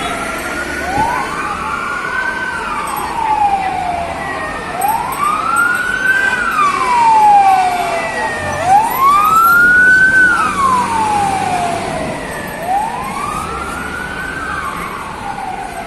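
Fire engine sirens wailing, each cycle rising and then falling more slowly, about every four seconds; a second siren overlaps at the start, and the wail is loudest about ten seconds in, then a little fainter.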